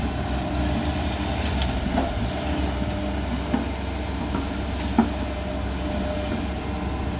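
Heavy diesel machinery, an excavator and a dump truck, running steadily at a work site, with a few short metallic knocks about 2, 3.5 and 5 seconds in.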